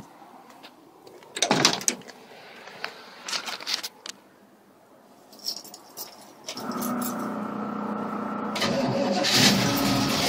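Keys jangling and handling noises at the ignition, then about six and a half seconds in the 1967 Chevrolet Nova gasser's 350 cubic-inch V8 starts and runs, growing louder near the end.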